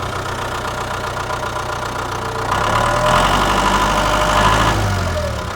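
Heavy machine's diesel engine running steadily. About two and a half seconds in, it grows louder with a whine that holds and then falls away near the end.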